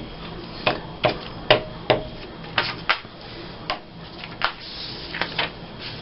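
About ten sharp clicks and taps at uneven intervals, from paper and craft tools being handled on a tabletop while magazine cutouts are laid out and glued.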